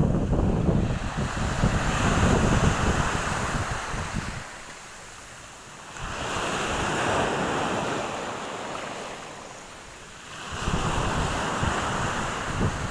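Black Sea waves washing up on the shore, swelling and fading, with fresh surges about six seconds in and again near ten and a half seconds. Wind buffets the microphone in the louder stretches.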